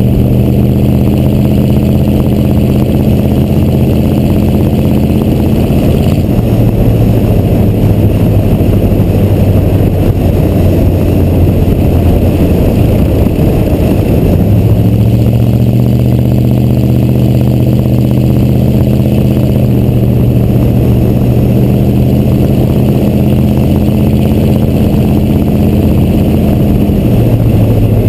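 Chevrolet 6.2 Detroit diesel V8 running loud through exhaust stacks. Its engine speed drops about six seconds in and turns ragged for several seconds, then steps up and holds steady before dropping again near the end.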